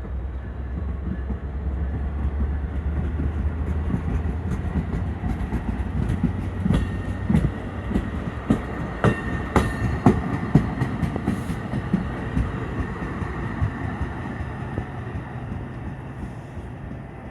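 NJ Transit multilevel push-pull commuter train passing close by: a heavy low rumble at first, then a run of rapid wheel clicks over the rail joints as the coaches roll past, with a thin steady high squeal, easing off near the end.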